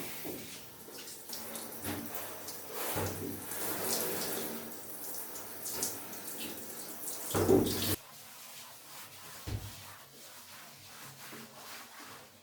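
Tap water running and splashing as a bathtub is washed and rinsed, uneven as the stream hits different surfaces. It cuts off suddenly about two-thirds of the way through, leaving faint handling sounds.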